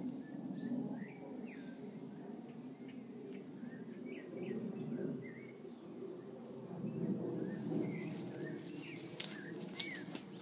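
Small birds calling with many short, scattered chirps over a low rumble of handling and walking noise. A steady high-pitched tone runs underneath, and two sharp clicks come near the end.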